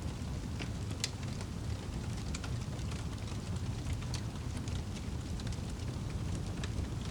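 Wood fire crackling in a fireplace: a steady low rumble of burning with scattered sharp pops and snaps, a louder crack about a second in.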